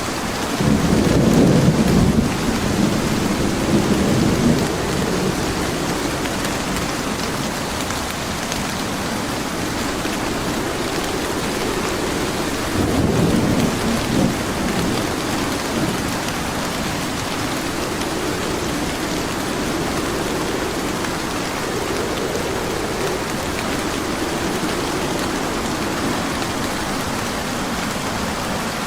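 Steady rain with rolling thunder: a loud rumble begins just after the start and lasts a few seconds, a second rumble comes near the middle, and softer rumbles follow.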